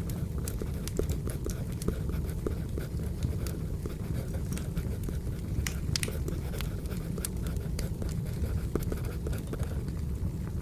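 Wood fire burning: a steady low rumble with irregular sharp crackles and pops of the burning logs.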